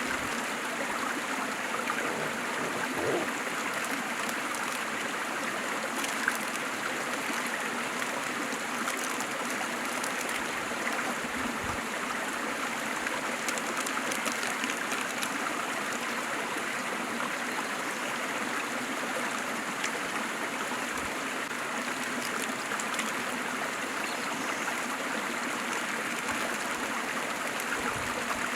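Waterfall: a steady, even rush of falling water, with a few faint splashes and ticks in it.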